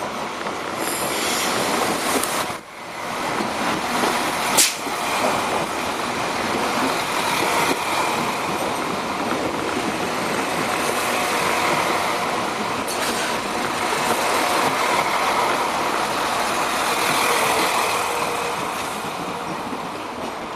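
Irish Rail 22000 Class diesel multiple unit running past close by, a loud steady rumble of wheels and underfloor diesel engines. A sharp click comes about four and a half seconds in, and the sound fades as the last carriage goes by near the end.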